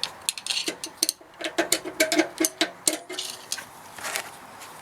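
Handbrake shoe adjuster on a BMW E60's rear brake being turned through the bolt hole, giving a quick run of metallic clicks, densest in the middle and tailing off after about three and a half seconds.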